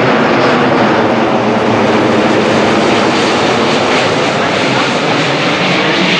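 Jet airliner's engines, loud and steady, as the plane passes close by.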